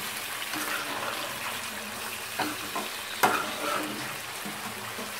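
Raw chicken pieces sizzling as they roast in ghee with browned onions in a metal pot, stirred with a metal slotted spoon. A few sharp clinks of the spoon against the pot come through the sizzle, the sharpest a little past three seconds in.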